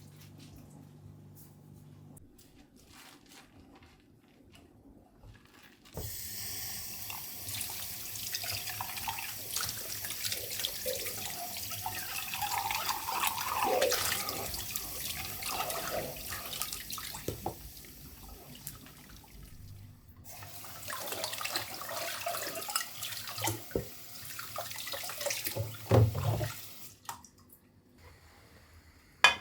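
Tap water running into a sink in two stretches, the first from about six seconds in and the second after a short break, with a knock near the end.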